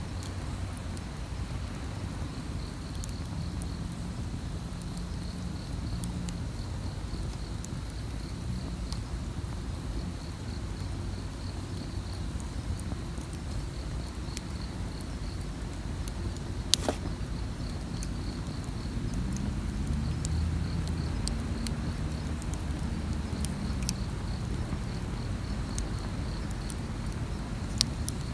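Campfire crackling, with scattered sharp pops and one louder pop about two-thirds of the way through. Underneath runs a low rumble that swells in the second half, and insects chirp in a steady pulsing trill.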